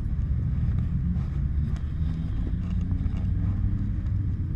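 Motorcycle engine running steadily at low speed, with some wind on the microphone.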